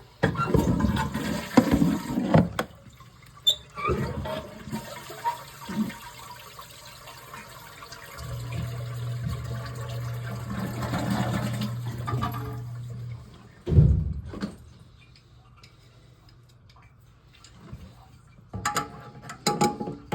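Old toilet flushing: water rushes for several seconds, loudest at the start. A single loud knock comes about 14 seconds in, and a few small clatters near the end.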